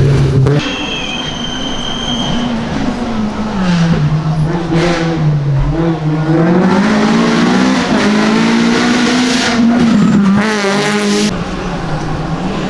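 Rally car engine working hard on a gravel or tarmac special stage, its pitch dropping and then climbing in steps with throttle and gear changes. A high, steady whistle sounds for about two seconds near the start.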